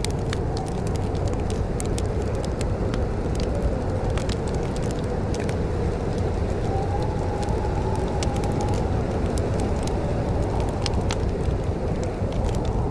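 Wood fire crackling, with frequent irregular sharp pops and snaps over a steady low rumble and a faint wavering tone.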